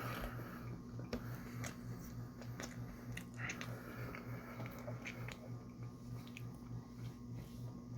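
Close-miked chewing: wet mouth clicks and soft squelches of food being bitten and chewed, over a steady low electrical hum.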